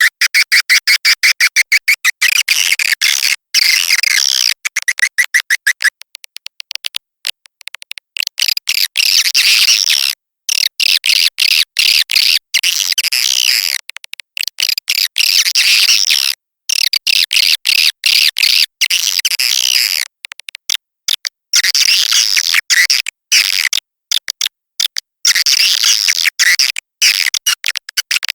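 Swiftlet lure recording of edible-nest swiftlet calls. It opens with a fast, even train of clicks for about six seconds, then turns to dense, high chattering twitters in bursts separated by short gaps. The track is played to call swiftlets in to nest.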